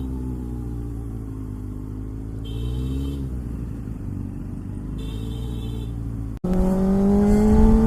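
Kawasaki ZX-6R inline-four engine running under way, its revs rising and falling. About six seconds in the sound breaks off sharply and comes back louder, the engine pitch climbing steadily as it accelerates.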